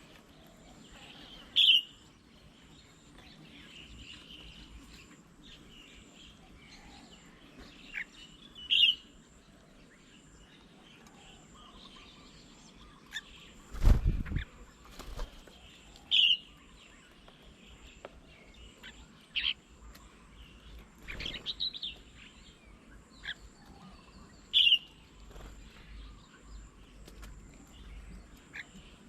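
Birds calling at a garden bird table: one short, sharp call repeats four times, about every seven to eight seconds, with other scattered chirps in between. A single thump about halfway through is the loudest sound.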